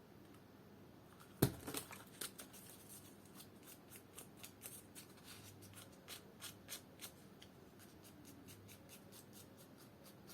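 Quiet bench handwork on a shoe: a sharp tap about one and a half seconds in, then a run of small clicks and light scratches for several seconds.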